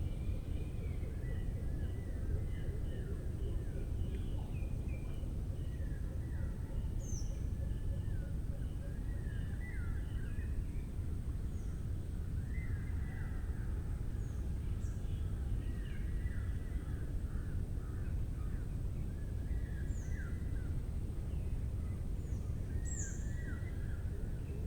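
Wild birds calling in a mangrove forest: repeated short falling calls with brief high chirps scattered through, over a steady low background rumble.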